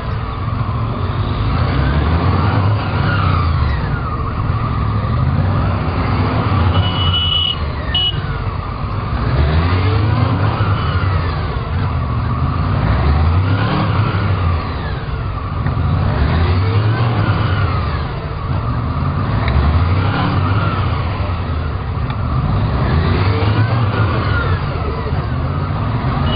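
Police motorcycle engines revving up and dropping back again and again, a rise and fall about every two to three seconds, as the bikes are ridden through tight figure-eight turns.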